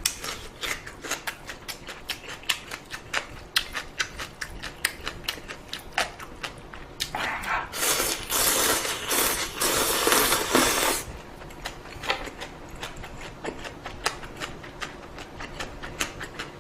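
Close-up eating sounds: rapid wet, crunchy chewing clicks, typical of crisp chonggak radish kimchi being chewed. About halfway through there is a louder slurping stretch of several seconds, typical of noodles being slurped.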